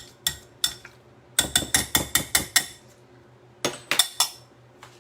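Potato masher mashing avocado for guacamole, knocking sharply against the bowl: a couple of single strikes, then a fast run of about six strikes a second, then a few more near the end.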